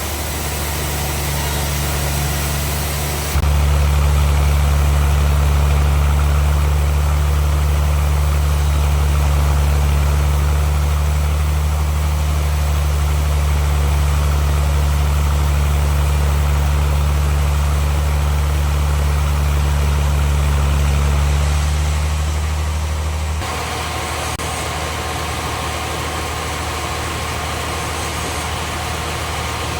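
Sawmill band saw machine running with a steady, loud low hum. About three seconds in it suddenly gets louder and holds there until roughly three-quarters of the way through, then drops back to a lower, steady running sound.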